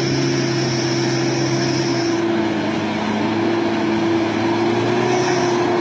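Pickup truck engine running at fairly steady revs, its pitch drifting only slightly, with a high thin whine above it that drops out about two seconds in and comes back near the end.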